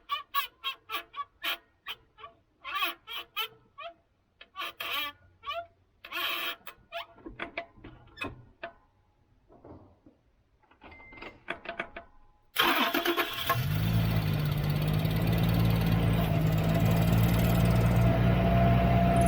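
Toyota Land Cruiser 70's engine starting about two-thirds of the way in, then running steadily at idle. A thin steady whine over it grows stronger near the end, the noise of a failing clutch release bearing. Before the start there is a run of short calls that rise and fall in pitch.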